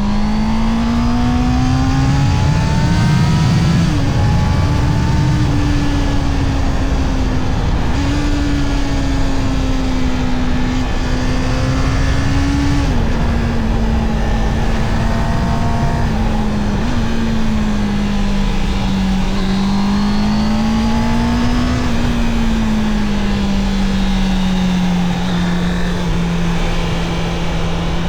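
Honda CB650R inline-four motorcycle engine under way, its note rising and falling with the throttle and stepping abruptly in pitch at several gear changes, then settling to a steadier cruise near the end.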